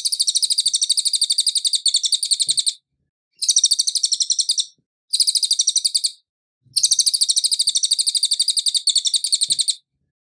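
Cililin songbird singing a fast, high trill of evenly repeated notes, in four long bouts broken by short pauses.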